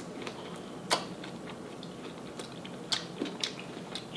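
A person chewing a first bite of food at close range, with sharp wet mouth clicks and smacks: a loud one about a second in and several more in the last second and a half.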